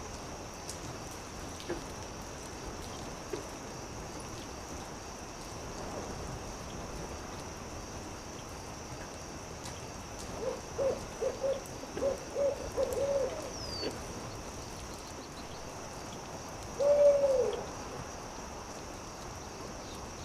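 An owl hooting: a quick run of about eight short hoots about halfway through, then one longer hoot that rises and falls, the loudest sound. Beneath it runs a steady campfire crackle with scattered small pops and a steady high buzz.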